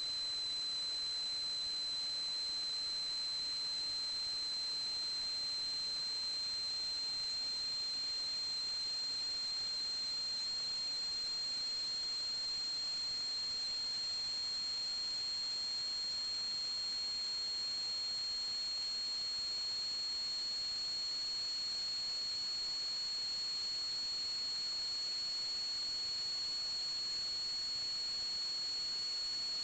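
A steady high-pitched electronic tone over a constant hiss, drifting very slightly upward in pitch and never changing in loudness.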